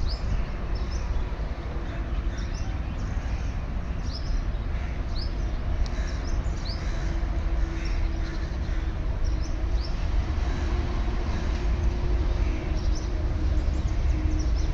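Distant approaching diesel-electric multiple unit, a steady low rumble with a steady hum that comes in about a third of the way through. Birds chirp short rising calls over it throughout.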